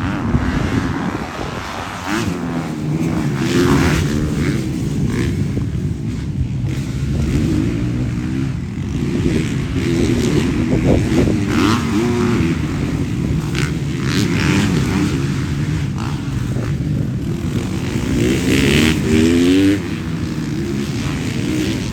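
Motocross bikes' engines racing: several engines revving up and dropping back again and again through the gear changes. The loudest rev climbs near the end, then cuts off suddenly.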